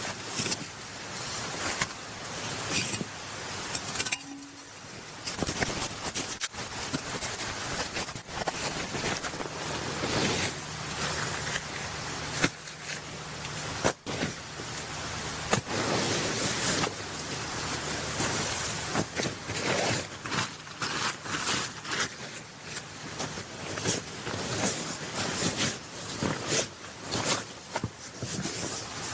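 Durston X-Dome 1+ tent being pitched: nylon fabric rustling, with many short clicks and knocks as it is handled.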